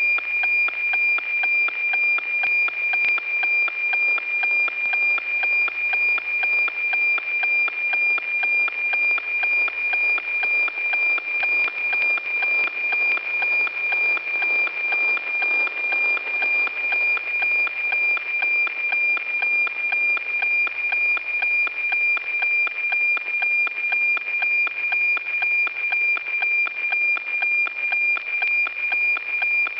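NOAA-15 weather satellite APT signal received by radio: a steady high tone with a ticking beat about twice a second, each tick one scan line of the cloud image being sent.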